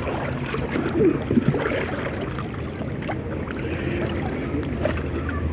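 Water moving and sloshing in a lazy river, a steady rushing noise close to the microphone, with faint distant voices now and then.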